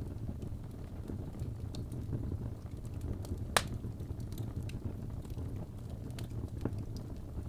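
Fire crackling in a fireplace: a steady low rumble with scattered small pops and one sharp, louder crack about halfway through.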